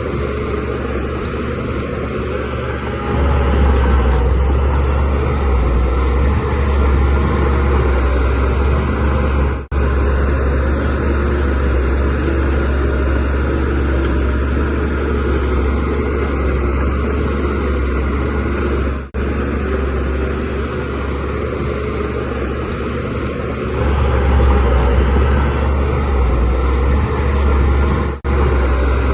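Shantui DH17C3 Pro bulldozer's diesel engine running steadily, getting louder under load about 3 s in and again about 24 s in. There are brief gaps three times where the footage is spliced.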